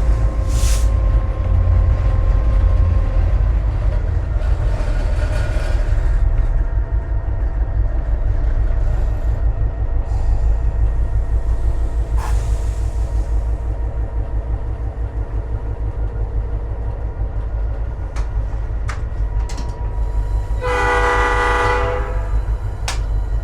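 A GP38-2 diesel locomotive's EMD 16-645 engine running with a steady low rumble, heard from inside the cab. Near the end, one horn blast of about a second and a half.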